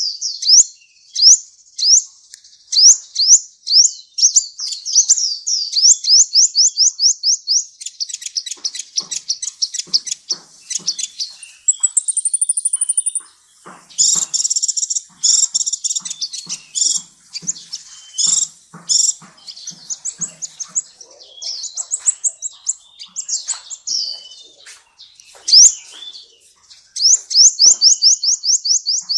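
Sunbird singing: fast series of sharp, high chirps and trills, several notes a second, with a thin, high, buzzy trill about twelve seconds in and a denser burst of chattering after it.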